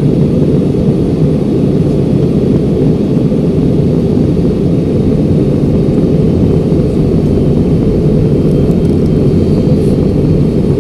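Steady in-flight cabin noise of a jet airliner: engine and airflow noise, low in pitch and unchanging.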